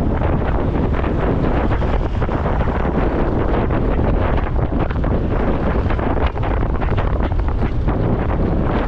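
Steady wind rushing over the microphone of a motorcycle being ridden, a dense low rumble of moving air.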